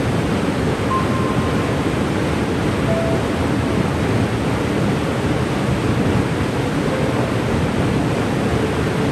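Cane River Falls waterfall: a steady, even rush of falling water, with a few faint short tones over it.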